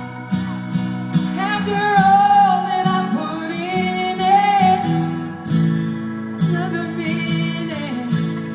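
A woman singing to acoustic guitar accompaniment. She holds wavering notes through the middle over steady strummed chords.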